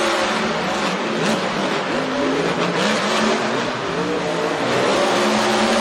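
Monster truck engines racing, running loud and continuous with a wavering pitch.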